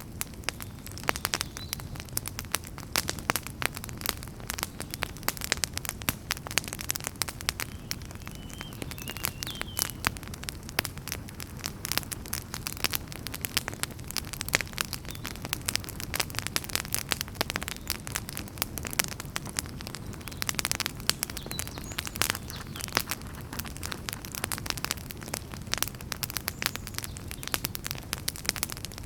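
Wood fire burning in a fireplace, crackling continuously with frequent sharp pops and snaps over the low, steady rush of the flames.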